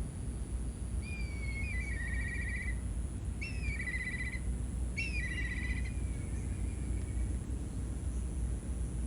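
A bird calling three times, each call a short falling note that runs into a quick trill, over a steady low outdoor rumble.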